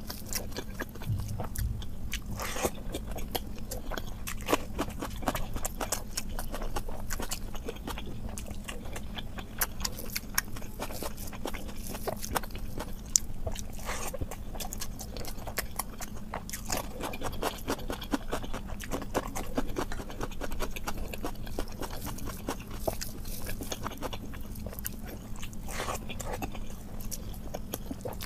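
Close-miked eating: mouth chewing and smacking on a handful of rice, dal and omelette, with fingers mixing and tearing the food on the plate, many small wet clicks throughout over a steady low hum.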